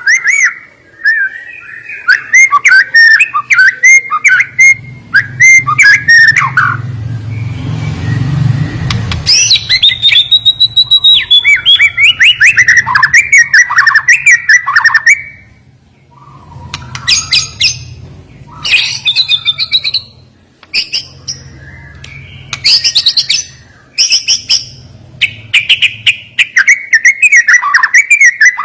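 White-rumped shama (murai batu) singing loud phrases of rapid, sharply clipped notes and quick chatters, broken by short pauses. A low hum and a patch of hiss sit under the song about a third of the way through.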